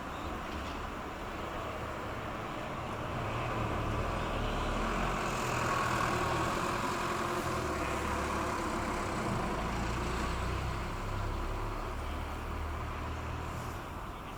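A passing vessel's engine: a low steady rumble with a broad wash of noise, growing louder to a peak about six seconds in and then easing off.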